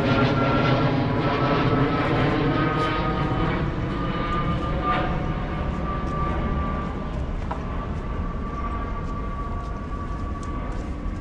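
An airplane flying over: a loud, steady engine noise with a whine that slowly drops in pitch and fades as the plane moves away.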